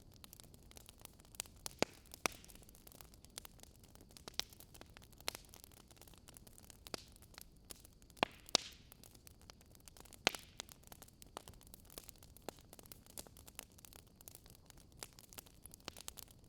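Wood fire crackling: irregular sharp pops and snaps over a faint steady hiss, with a few louder pops around the middle.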